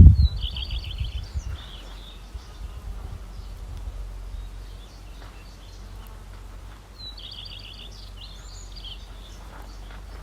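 A small songbird singing twice: a fast phrase of rapid repeated notes ending in a flourish, about a second long, near the start and again about seven seconds in. A loud low thump right at the start, and a low steady rumble throughout.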